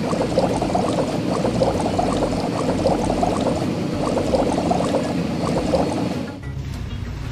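Water bubbling and gurgling, a busy liquid sound full of small pops, stopping near the end.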